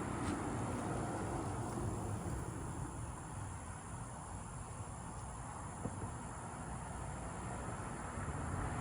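A low, steady rumble with a faint, steady high insect drone above it; no sharp thunderclap stands out.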